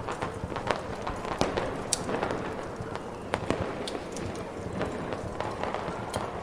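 Ambience mix of a crackling fire and fireworks: irregular sharp pops and crackles over a steady rushing noise.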